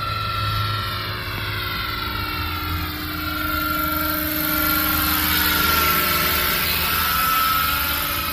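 Radio-controlled scale model helicopter flying: a steady motor whine and rotor noise, growing louder as it passes nearer about two-thirds of the way through.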